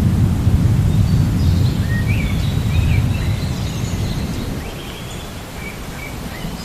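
Thunderstorm ambience: a low rumble of thunder that fades away over about five seconds, under a steady hiss, while a bird calls in short chirps.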